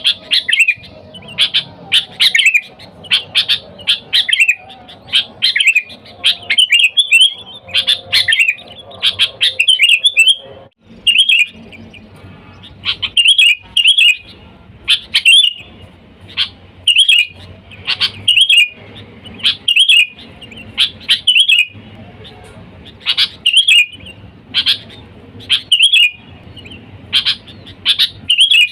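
Sooty-headed bulbul (kutilang) calling in short, bubbly chirping phrases, repeated about once a second, with a short break about eleven seconds in. This is a lure call used to draw in wild bulbuls.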